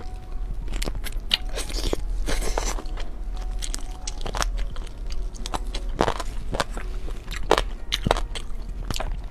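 Close-miked crunchy biting and chewing of fried food, in irregular crisp crunches.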